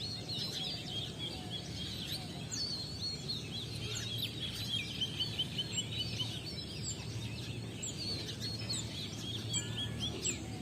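Many small birds chirping and twittering at once in a dense morning chorus of quick, high, overlapping calls, over a faint low steady hum.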